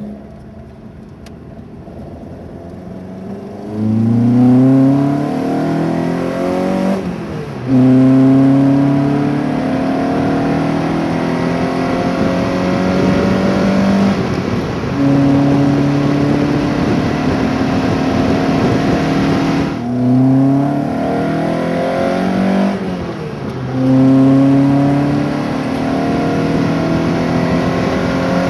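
1.9-litre 8-valve VW Golf GTI four-cylinder on twin Weber 40 carburettors, with a four-branch manifold and stainless exhaust, driven hard through the gears. After a few quieter seconds it pulls up in revs several times, the pitch dropping at each gear change, with spells of steady running between.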